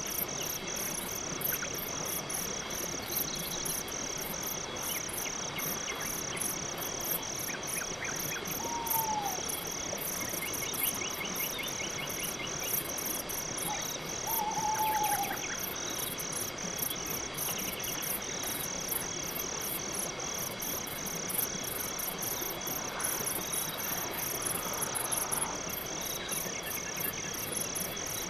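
Crickets chirping in a steady, even rhythm over a soft night-forest background, with higher insect buzzing above. A few short trills and two brief falling calls break through about a third and half way in.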